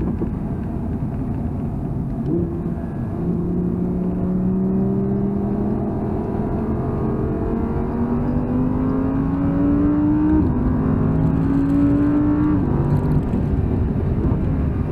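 Audi R8's 5.2-litre V10, heard inside the cabin, accelerating hard on track. The engine note climbs steadily for several seconds, drops sharply at a gear change about ten seconds in, climbs again and falls once more near the end, over a low road rumble.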